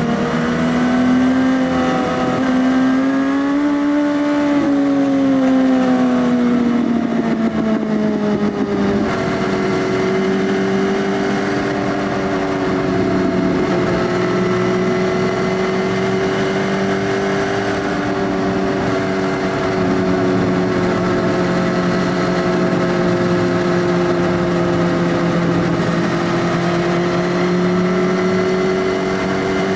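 Suzuki GSX-S1000's inline-four running through an Arrow Race Tech full exhaust system with the dB killer removed, under way. The revs rise and then fall over the first several seconds, then hold nearly steady at a cruise.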